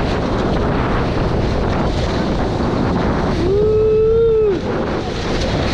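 Wind buffeting the microphone and water rushing past the hulls of a Nacra 20 catamaran sailing fast. A held whoop of 'woo!' about three and a half seconds in.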